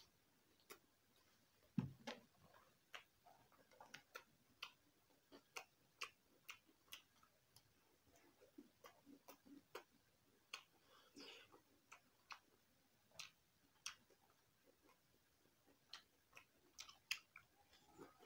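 Quiet close-up eating sounds: a man chewing chicken and rice eaten by hand, with irregular sharp mouth clicks and lip smacks a few times a second and a single louder bump about two seconds in.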